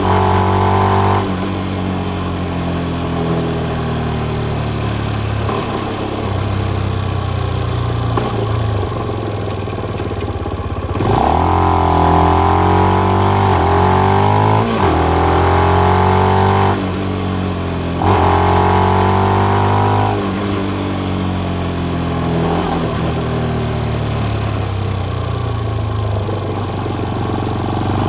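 Benelli BN125's single-cylinder engine running through its stock exhaust with the dB killer in. It holds a steadier note at first, then from about eleven seconds in it revs up in rising pulls that each drop off at a gear change, three times, before settling back to a steadier run.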